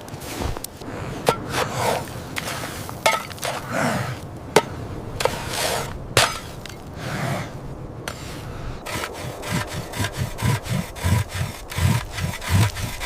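Sharp knocks and clatter, like wood being handled, mixed with rubbing, and a run of low thuds in the last few seconds.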